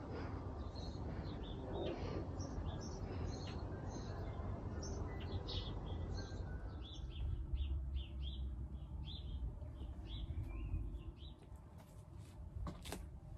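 Small songbirds chirping and twittering in quick short calls over a steady low background noise, with a couple of sharp clicks near the end.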